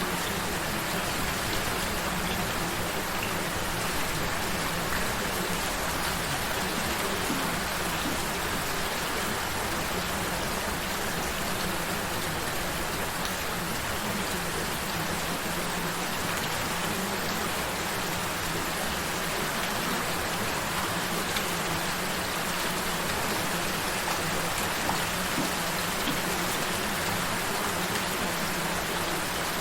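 Steady rain falling, a gentle even patter with no let-up, with a faint low steady tone beneath it from the added sound frequency.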